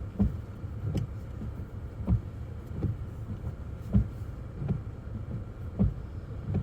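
Windshield wipers running in snow, thumping at each end of their sweep about once a second, over the steady rumble of the car's engine and tyres heard inside the cabin.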